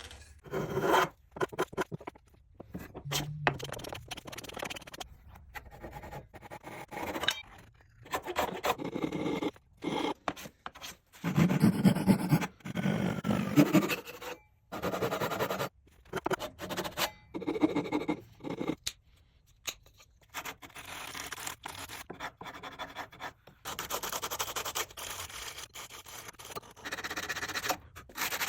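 Wood being shaped by hand: rubbing, scraping and rasping strokes in a series of short, abruptly cut segments.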